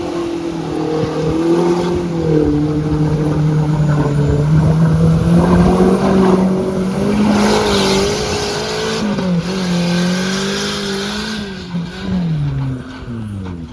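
Off-road 4x4's engine revving under load, its pitch wavering up and down, then falling away near the end as the revs drop.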